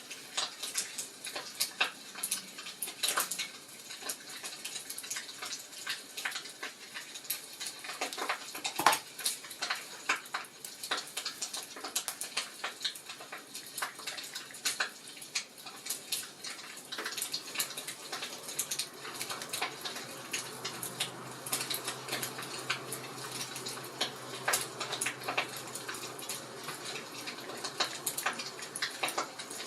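Wood fire crackling and popping in a fireplace, with irregular snaps over a soft hiss and one louder pop about nine seconds in. A faint low hum comes in about twenty seconds in.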